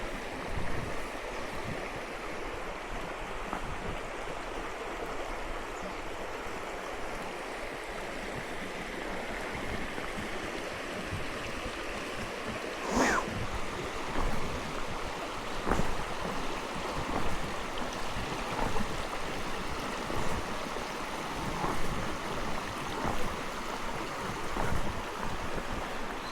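Steady rushing outdoor noise. From about halfway, regular footsteps come roughly every second and a half.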